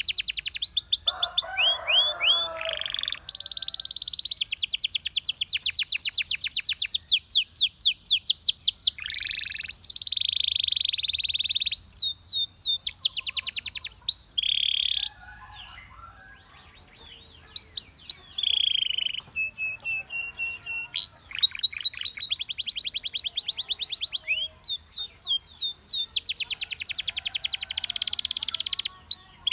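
Domestic canary singing a long song of fast trills of rapidly repeated notes, whistled glides and held notes, with a brief pause about halfway through.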